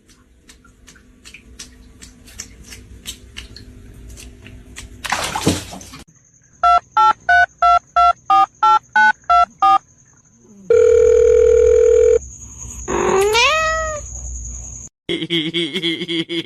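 A quick run of about eleven electronic beeps, then a steady tone held for about a second and a half, then a cat's meow rising sharply in pitch.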